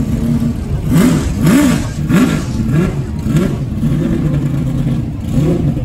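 A car engine idling and being blipped repeatedly: several short revs that rise and fall quickly, with a steady idle between them.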